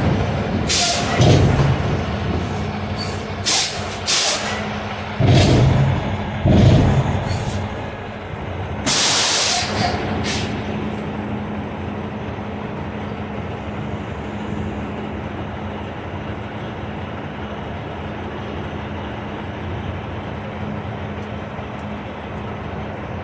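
Semi truck idling with a steady hum, with several heavy clunks in the first seven seconds and a loud hiss of released compressed air from the truck's air system about nine seconds in.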